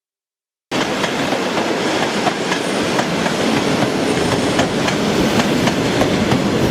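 ED4M electric multiple unit running on the rails: a steady rumble of wheels and motion, with occasional sharp clicks of the wheels over rail joints. It cuts in suddenly just under a second in.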